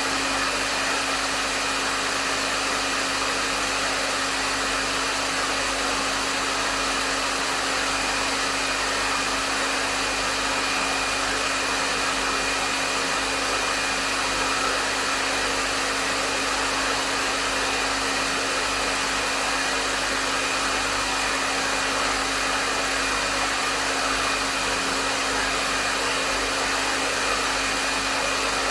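Hair dryer running steadily: an even rush of airflow with a low motor hum and a faint high whine underneath.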